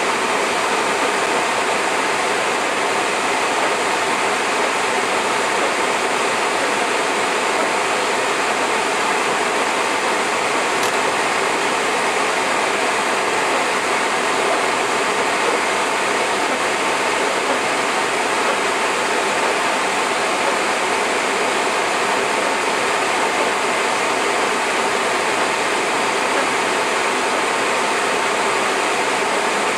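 Hard rain falling steadily, a dense, even rush of noise with no letup.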